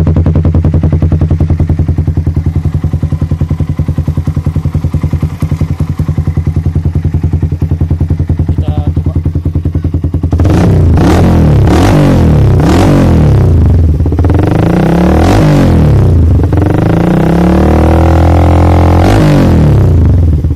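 Suzuki Satria FU's 150 cc single-cylinder four-stroke engine breathing through a DBS KWS aftermarket exhaust, idling steadily with a fast, even pulse. From about halfway it is revved in a series of quick blips that rise and fall. The uploader calls it super bassy.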